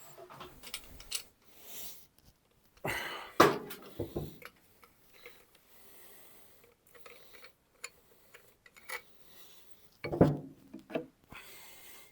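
Metal tools and fork parts clinking and knocking as they are handled, with two louder clattering spells, about three seconds in and again about ten seconds in.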